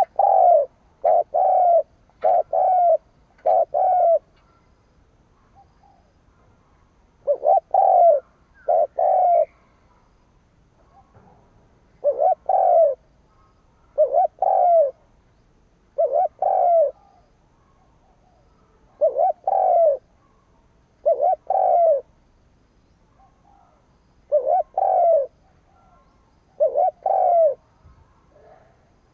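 Spotted dove cooing: low, arched coos repeated in short phrases, several notes at first and then mostly one or two at a time, with pauses of a few seconds between.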